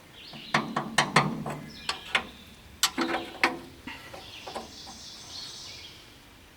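Hand tools clinking and knocking on metal while working at the concrete mixer engine's mounting bolts: a run of sharp clicks in quick bunches through the first half, fading to a faint hiss near the end.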